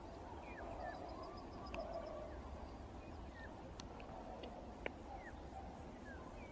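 Songbirds calling by a river: short falling whistled notes and a brief rapid high trill about a second in, with a few sharp clicks, over a low steady rumble.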